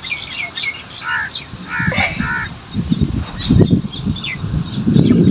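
Crows cawing, a few harsh calls around a second and two seconds in, over short high chirps of small birds. Irregular low rumbling bursts run through the second half.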